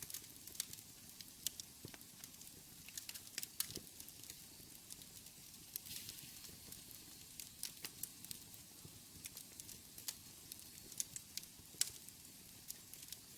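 Wood fire burning in a fireplace: faint steady hiss with frequent sharp, irregular crackles and pops.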